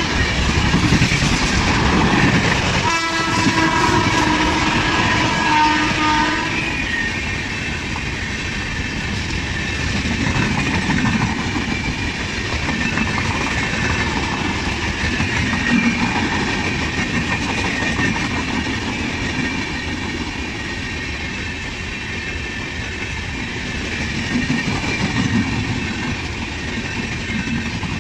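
A train horn sounds for about the first six seconds, with a short break about three seconds in. After that, express passenger coaches pass at speed with a steady rumble and the clickety-clack of wheels over rail joints.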